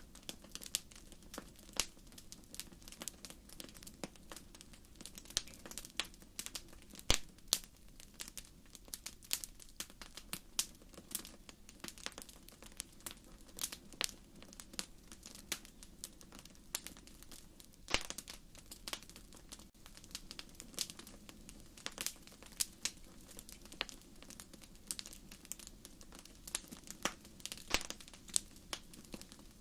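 Wood fire crackling in a fireplace: irregular sharp pops and snaps, a few louder ones, over a soft steady hiss of the flames.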